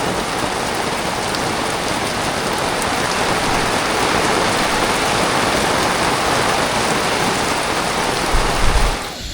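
Heavy rain pouring down steadily in a dense, even hiss. A brief low thump comes near the end, and then the sound cuts off suddenly.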